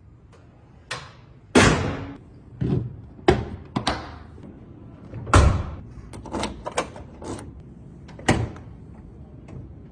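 A series of about eight heavy slams and thuds at irregular spacing, each dying away quickly, the loudest about one and a half seconds in and again about five and a half seconds in.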